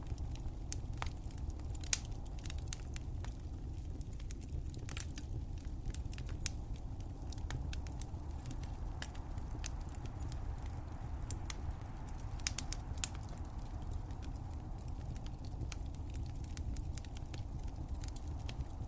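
Fireplace fire crackling: irregular sharp pops and snaps over a steady low rumble, with a few louder pops about two seconds in and again near the middle.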